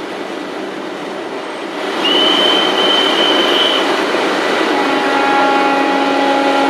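Passenger express train hauled by a WAG9 electric locomotive, running with a steady rumble. A high steady squeal comes in about two seconds in, and a steady low pitched tone with overtones starts near the end.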